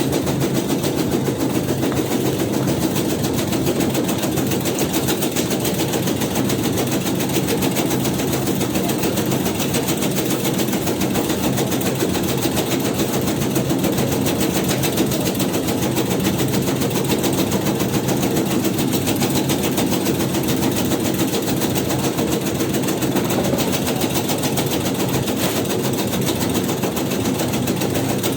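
Motor-driven tobacco-shredding machine running steadily, its cutter chopping leaves in a fast, even rhythm over a low motor hum.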